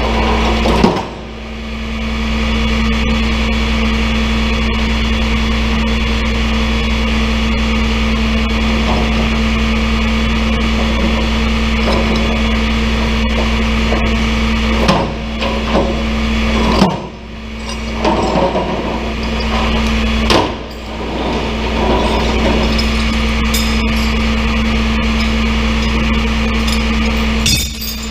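Tow truck's engine running steadily with a low hum. The sound drops out briefly a few times, with a few light knocks and clicks.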